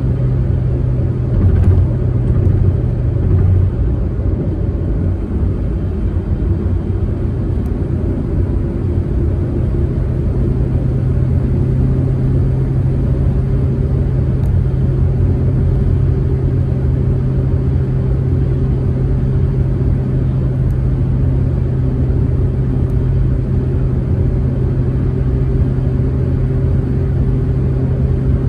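Proton Saga MC2 driving at a steady speed: a constant low engine drone with road and tyre noise, and a few low thumps from the road a couple of seconds in.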